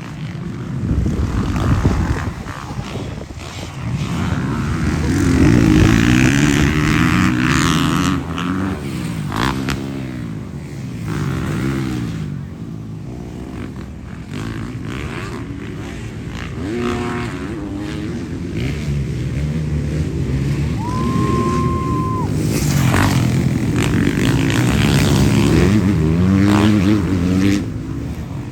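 Several motocross bikes racing, their engines revving up and down in overlapping rises and falls as they accelerate, shift and pass.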